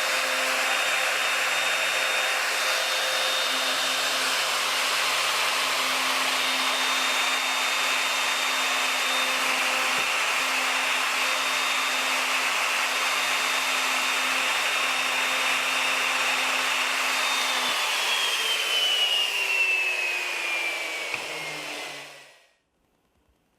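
An electric motor on a woodshop machine runs steadily with a high whine over an airy rush. Near the end it is switched off and winds down, its whine falling in pitch until it stops.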